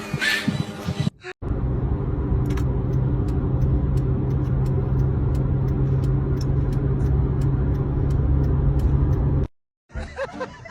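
A steady low rumble with a constant hum, like a running motor vehicle, with faint ticks over it; it starts after a short break about a second in and cuts off shortly before the end.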